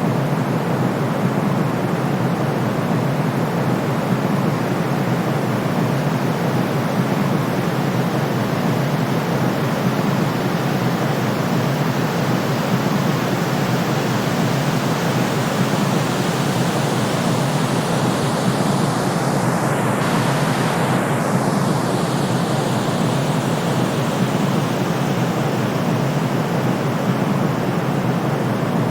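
Steady calming white noise, a soft even hiss weighted toward the low end, with no changes in level.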